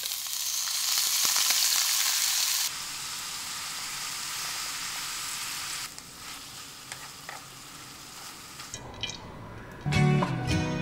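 Chicken pieces hitting hot oil in a wok and sizzling loudly, then frying on with stirring in the wok, the sizzle dropping in level twice and giving way to a few clicks of the spatula. Music starts about a second before the end.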